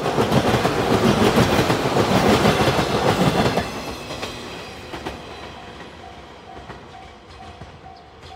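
A yellow JR 115-series electric train passes at close range. It is loud for the first three and a half seconds, then fades as it moves away. About two-thirds of the way in, a level-crossing warning bell starts ringing at about two strokes a second.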